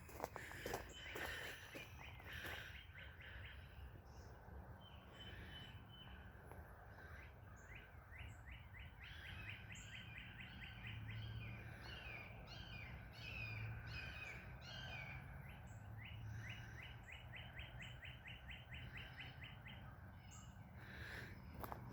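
Songbirds singing faintly outdoors: long rapid trills of short, evenly repeated rising chirps, beginning a few seconds in, over a low steady hum. A few soft scuffs sound in the first couple of seconds.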